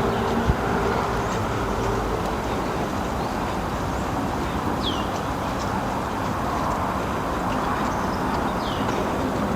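Steady outdoor background rumble with a few short, high, falling bird chirps about five and nine seconds in.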